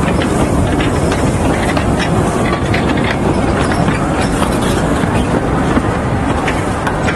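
Narrow-gauge passenger coaches rolling past close by: a loud, steady rumble of wheels on rail, with irregular clicks as the wheels run over the track.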